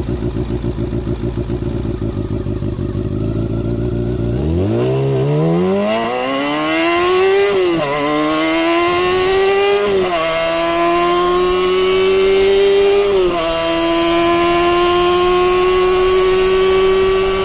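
Kawasaki Balius 250's inline-four engine and exhaust ticking over at low revs, then pulling away hard: the pitch climbs steeply and drops at each of three upshifts before holding a high, steady note at cruising revs.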